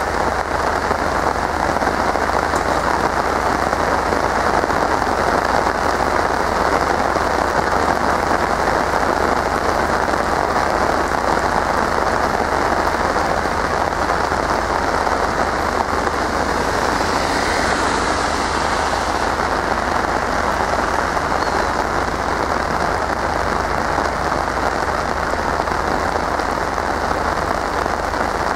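Steady rain falling, an even hiss that swells briefly about two-thirds of the way through.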